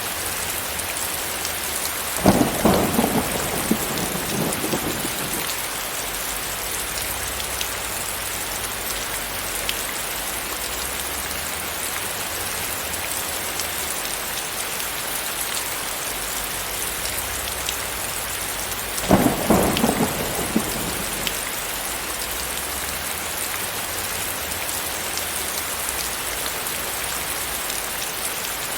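Steady rain hiss with two sudden cracks of thunder, each crackling on for two or three seconds, about two seconds in and again about seventeen seconds later.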